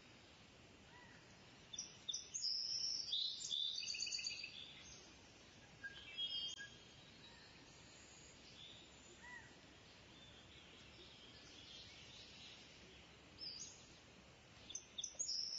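Birds calling with high, quick chirps and short trills, in a burst about two seconds in, briefly again around six seconds, and once more near the end, over faint steady outdoor background noise.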